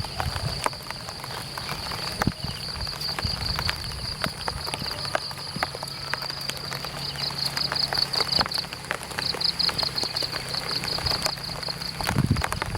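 Light rain pattering on an umbrella: scattered sharp drop ticks on the canopy. Over it runs a steady high-pitched trill that breaks into rapid pulses past the middle.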